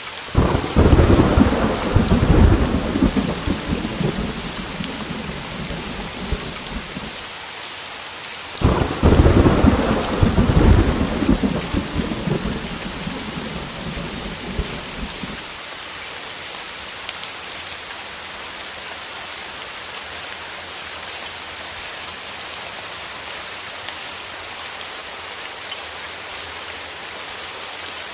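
Heavy rain falling steadily on a window, with two long peals of thunder rumbling in and dying away: one right at the start, the other about eight seconds later.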